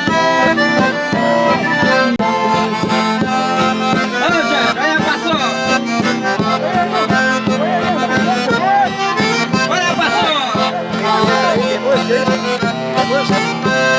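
Live traditional folk music led by an eight-bass button accordion (sanfona de oito baixos) playing held chords and melody over an even, steady beat.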